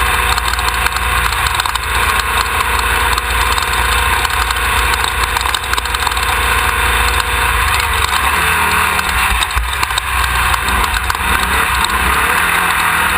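Engine of a Class 1600 off-road race car running continuously, picked up loud by a rear-mounted camera. From about eight seconds in, a fainter pitched sound rises and falls several times over the steady noise.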